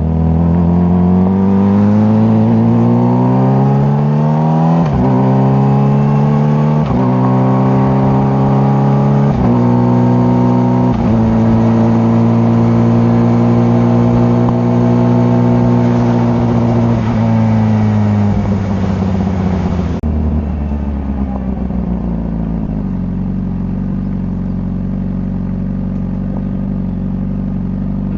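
Honda CBR600RR's inline-four engine accelerating hard through the gears, with a rising note that drops at each of four quick upshifts about two seconds apart. It then holds a steady high note for a few seconds, falls away as the bike slows, and settles into a low steady run near the end.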